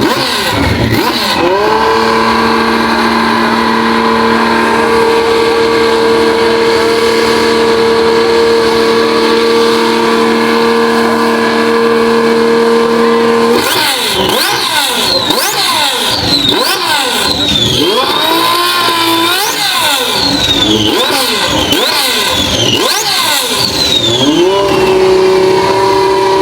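Supercar engines in a rev-off between a Lamborghini and a twin-turbo Ferrari. An engine revs up about a second in and is held at steady high revs for about twelve seconds, then is blipped rapidly up and down for about ten seconds, and near the end revs climb and hold steady again.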